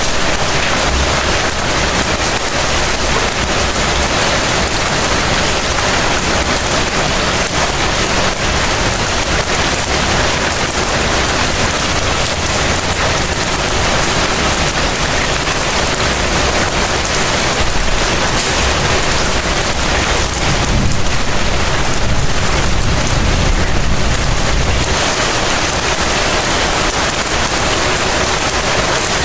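Heavy rain falling steadily, a dense even hiss of rain. About two-thirds of the way through, a low rumble swells for several seconds and then fades.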